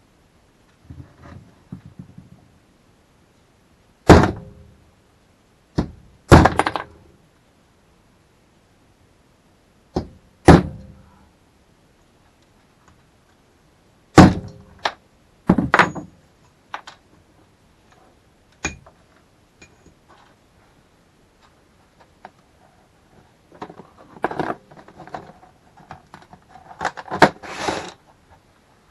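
Sharp, spaced knocks on a workbench, each with a short ring, as saw chain from a roll is handled. The knocks give way to a rattling metal clatter near the end.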